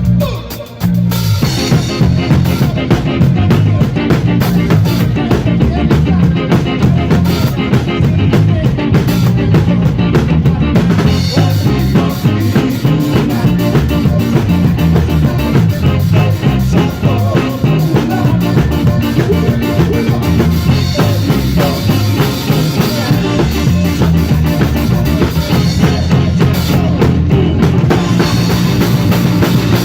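Live rock band playing a song run-through at a soundcheck, drum kit driving it. A brief drop about a second in before the full band comes back in.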